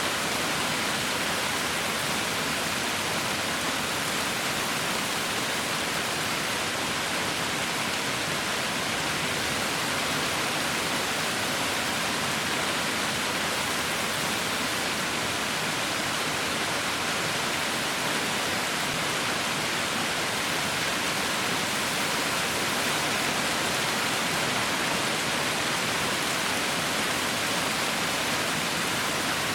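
Heavy rain falling steadily: a dense, even hiss with no separate drops or gusts standing out.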